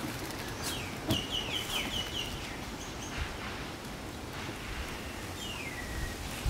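A bird calling: a quick series of about six short, high, falling chirps about a second in, and another falling call near the end, over steady outdoor hiss.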